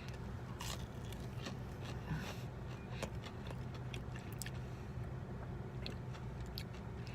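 A man biting into and chewing a crispy fried chicken tender, with scattered small crunching clicks, over a steady low hum.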